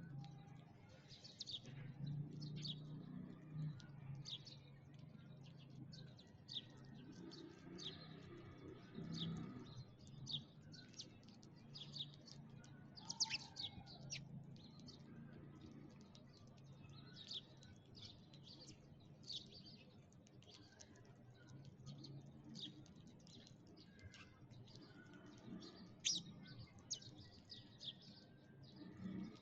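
Sparrows chirping: many short, high chirps, several a second, with no pause, over a faint low hum.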